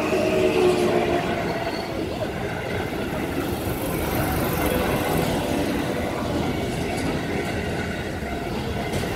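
Keihan 9000-series electric commuter train passing close by at a level crossing: a steady rumble of its wheels on the rails.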